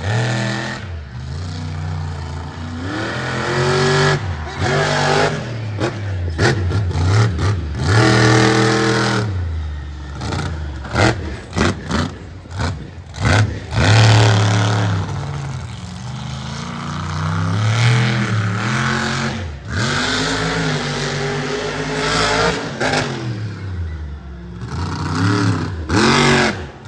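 Monster truck engine revving hard and falling back again and again during a freestyle run, with several sharp knocks and clatters in between.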